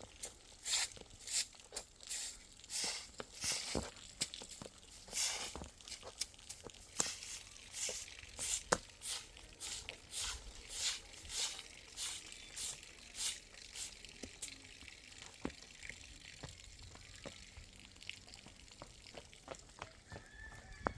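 Snow crunching in short, sharp strokes, about one or two a second and irregular, growing sparser and fainter after about twelve seconds.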